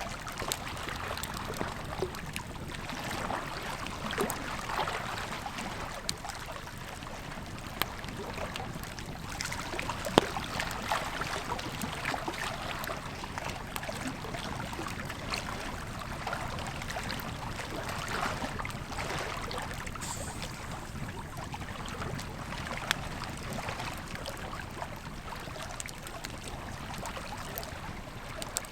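Campfire crackling with scattered sharp pops, the loudest about ten seconds in, over the steady rush of a flowing river.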